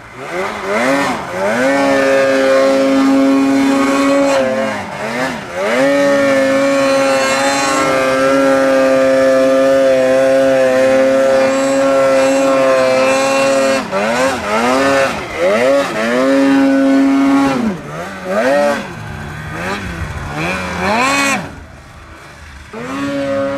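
Snowmobile engine at high revs under throttle. It climbs within the first second and holds steady for long stretches, with brief dips off the throttle around five seconds in and again after about fourteen seconds. It drops back to a low run a couple of seconds before the end, then revs up again.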